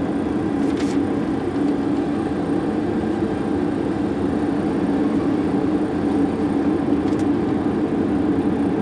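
MD-80 flight-deck noise on final approach with the gear down: a steady rush of airflow with a constant low hum underneath.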